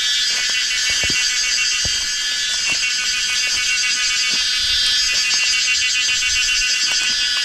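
A loud, steady chorus of cicadas buzzing in many overlapping high pulsing tones, with a few soft knocks underneath.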